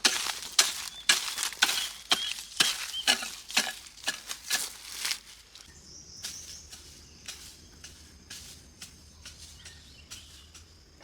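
A run of sharp knocks, about two a second, that stops about five seconds in; after that only faint scattered ticks and a thin steady high tone remain.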